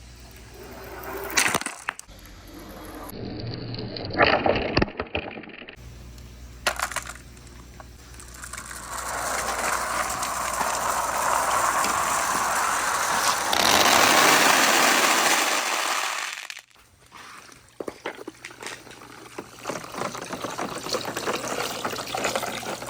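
Marbles clacking and rolling down a marble run: a few sharp knocks early on, then a long rushing swell that builds and cuts off suddenly, then a rapid patter of small clicks.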